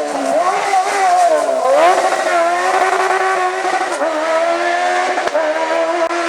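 Hillclimb race car engine at high revs, dropping in pitch then climbing hard again about two seconds in, with a quick drop and renewed climb near four seconds as it works through the gears.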